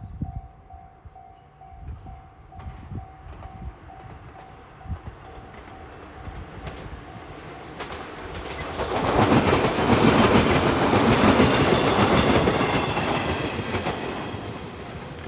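A level-crossing warning bell rings in a steady pulse, about two beats a second. About eight seconds in, a JR 115 series electric train passes the crossing as it runs into the station. Its wheels clatter over the rail joints and drown out the bell for several seconds, and the bell is heard again at the very end.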